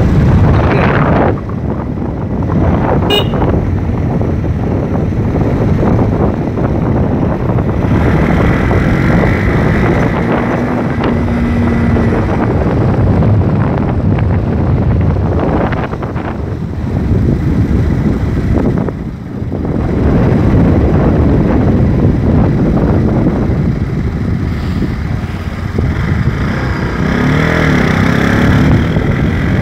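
Motorcycle running at speed, with steady wind noise buffeting the microphone.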